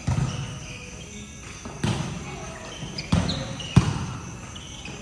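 Basketballs bouncing on a hard gym floor: four separate thuds, each with a hall echo, among short high squeaks.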